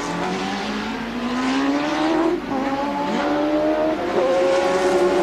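A 1988 Formula One car's engine accelerating: the revs climb for about two seconds, break briefly, then hold a steadier, higher note.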